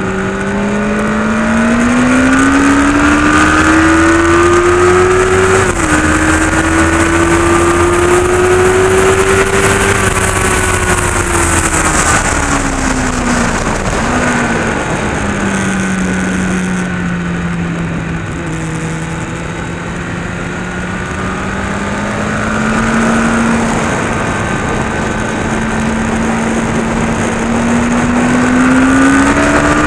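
Honda CBR600F inline-four engine heard from onboard at speed. The revs climb, drop sharply at an upshift about five and a half seconds in, then climb again. Around the middle the revs fall for a few seconds, hold low and fairly steady, then rise again near the end, over a constant rush of wind and road noise.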